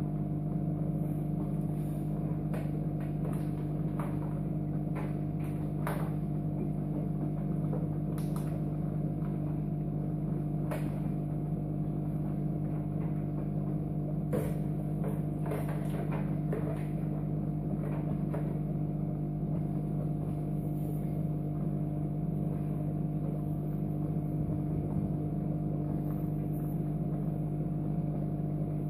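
A steady electrical hum, unchanging throughout, with a few faint scattered clicks in the first half.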